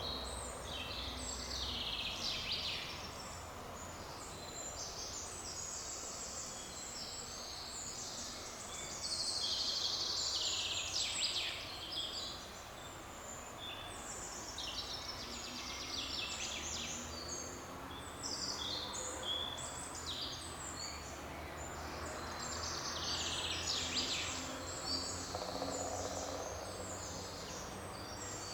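Several birds singing and chirping at once, a dense overlapping chorus of short high phrases, over a steady low background noise of forest ambience.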